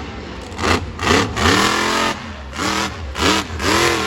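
Monster truck engine revving in repeated bursts, its pitch rising and falling with each blip of the throttle.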